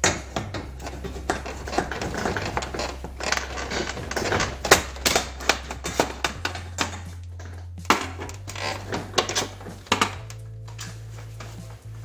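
Irregular metallic tapping and clanking at a steel garage door track while a new nylon roller is worked into its pocket, with a dense run of knocks that thins out about ten seconds in.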